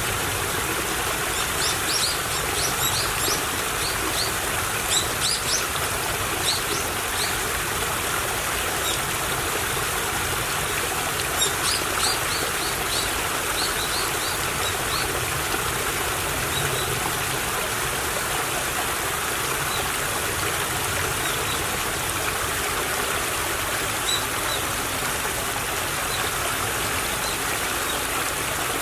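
Small stream of water trickling and babbling steadily. Birds chirp in short quick bursts over it, mostly in the first half.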